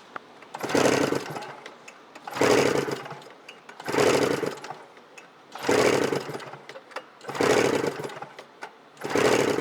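1998 Yamaha SRX 700 three-cylinder two-stroke snowmobile engine being cranked over for a compression test on the clutch-side cylinder, in six strokes about a second and a half apart, each lasting about a second. The cylinder reads 125 psi, a healthy figure.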